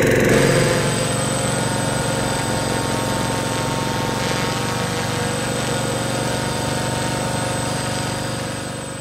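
Quadcopter drone's electric motors and propellers running steadily: a dense buzzing hum with a thin high whine above it, fading out at the end.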